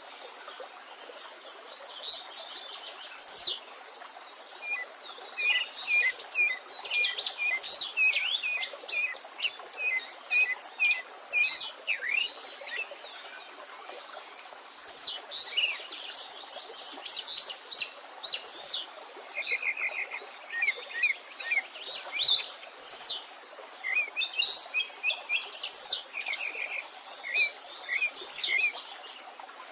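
Several songbirds singing over one another: sharp, falling whistled notes and quick runs of short repeated chirps, over a faint steady rush of a stream.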